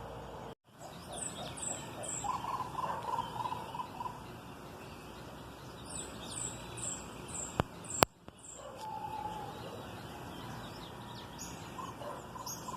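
Birds calling: series of short, very high chirps in quick runs, with a lower rapid trill between them. Two sharp clicks about eight seconds in, the second the loudest sound.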